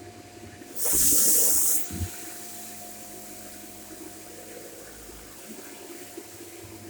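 Shark corded Lift-Away upright vacuum cleaner running steadily with a constant hum. About a second in comes a loud hissing rush lasting about a second, followed by a short knock.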